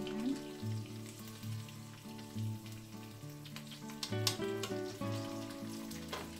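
Stuffed squid frying in hot oil in a nonstick wok, sizzling steadily, with a few sharp clicks of a slotted spatula against the pan, the loudest a little past four seconds in and again near the end. Background music with a steady beat plays underneath.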